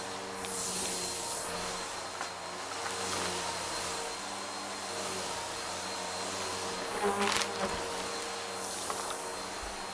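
Vacuum cleaner running steadily with a humming motor. A few swells of hiss and a brief crackle about seven seconds in come as it picks up a crunchy carpet debris mix.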